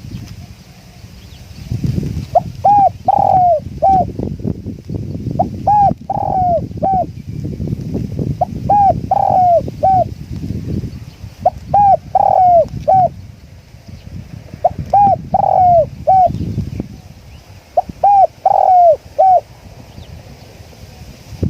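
Spotted dove cooing: a phrase of four or five coos repeated about every three seconds, with wind rumbling on the microphone.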